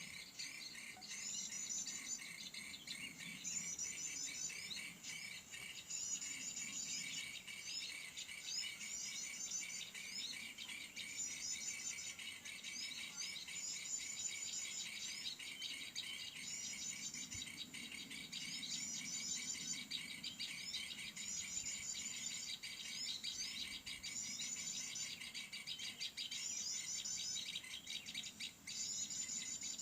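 Short, rapid, high-pitched bird phrases repeat every second or two over a steady chorus of insects.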